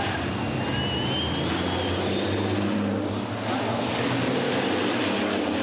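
Steady low engine drone from heavy motor vehicles, with a faint rising whine about a second in.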